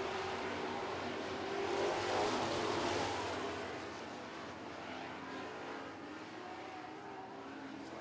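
Super Truck race trucks' engines running hard around a dirt oval. The sound swells about two seconds in as the trucks pass closer, then fades back to a lower, steady drone.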